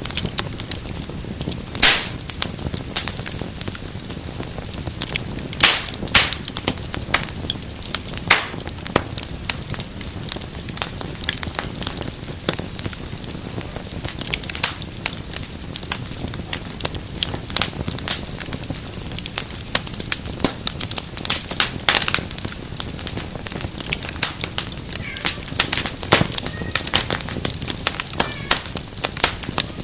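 Fireplace fire crackling, with frequent sharp pops over a steady low hiss.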